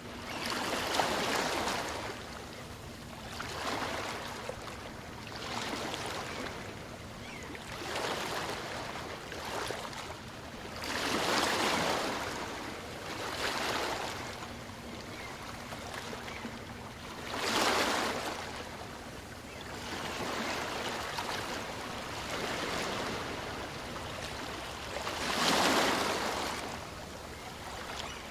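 Small waves of a calm sea washing in and out, with a swell of surf every two seconds or so and four larger waves standing out among them.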